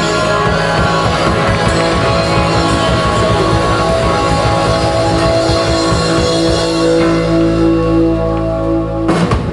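Live rock band playing loud, with guitar and drum kit, and the sound cuts off abruptly near the end.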